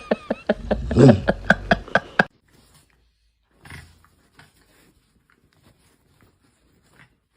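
A dog making a rapid run of short vocal sounds, about four or five a second, for roughly two seconds, then nearly quiet.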